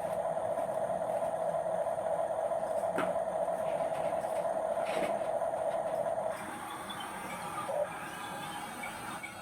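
Small electric motor of a remote-control toy truck whining steadily, then cutting out about six seconds in, with a couple of sharp clicks along the way.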